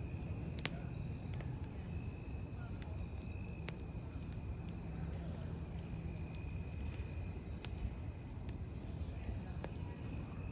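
Crickets chirring in a steady high trill over a burning wood campfire, whose crackle gives sharp single pops every second or two.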